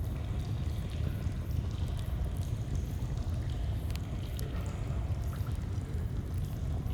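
Flowing stream and crackling campfire: a steady rush of running water, with scattered small sharp crackles and pops from the fire over it.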